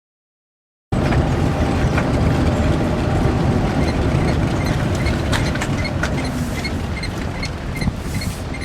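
Renault Twizy electric quadricycle driving: a steady low rumble of road and wind noise with scattered rattles and clicks, starting about a second in.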